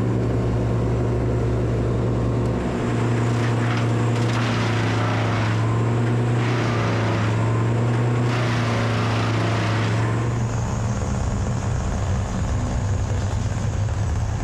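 A motor running steadily at one even pitch, with patches of hiss over it; its tone roughens about ten seconds in.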